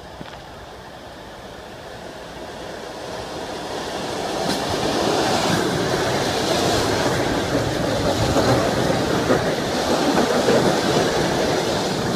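ER9M electric multiple unit rolling into the platform and passing close by. Its wheels and running gear grow louder over the first few seconds, then hold a loud, steady rumble as the carriages go by.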